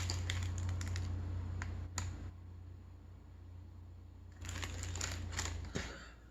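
Close-up crunching of a bite of deep-fried chimichanga's crisp tortilla shell, crackly clicks in two spells with a short lull between them about halfway through.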